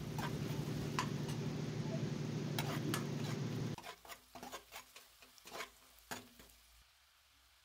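Sliced onions and spices frying in oil in an aluminium kadai: a steady sizzle with clicks and scrapes of a steel ladle stirring. About four seconds in the sizzle cuts off suddenly, leaving only a few scattered ladle taps.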